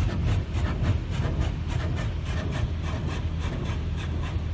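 High-pressure water jets of a touch-free automatic car wash spraying against the car, heard from inside the cabin: a steady hiss over a low rumble, pulsing about three times a second as the spray sweeps across the body.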